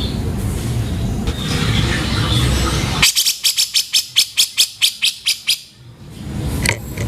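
Grey-cheeked bulbul (cucak jenggot) giving a harsh, rapid chattering call, about six strokes a second, lasting nearly three seconds from about three seconds in, over a steady low background noise.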